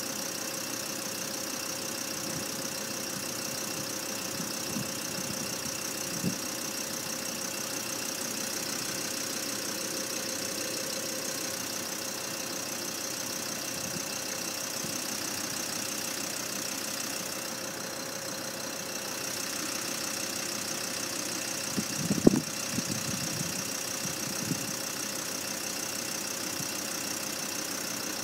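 Road vehicle engine idling steadily, with a single sharp knock about three-quarters of the way through.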